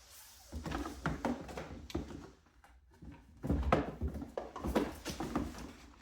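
Box fan parts being handled on a work surface: irregular knocks, clicks and rattles, the loudest cluster a little past the middle.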